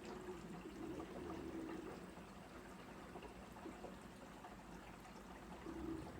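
Water running and splashing inside a Sharp ES-S7B fully automatic washing machine's tub, a steady flow with a low hum underneath.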